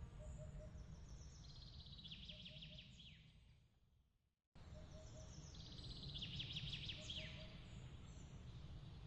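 A songbird singing a rapid phrase of quick notes that slide downward, heard twice, over a faint low rumble. The whole sound fades to silence about four seconds in, then cuts back in abruptly.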